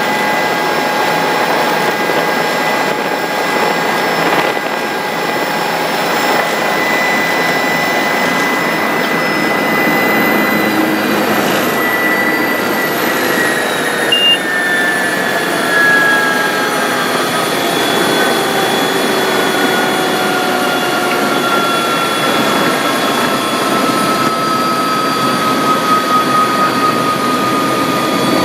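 Bell 407 helicopter's turbine engine and rotors running, a steady loud noise with whining tones, several of which slowly fall in pitch through the second half.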